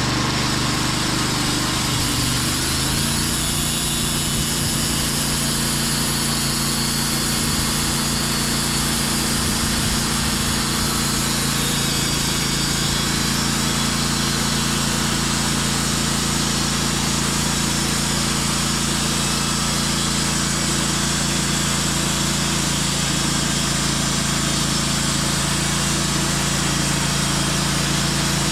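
Band sawmill's engine revving up over the first few seconds, then running at a steady pitch as the blade saws a white oak log.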